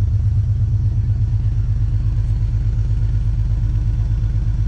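Honda S2000's four-cylinder engine idling with a deep, even exhaust rumble that sounds like a muscle car, running with its gasket freshly fixed.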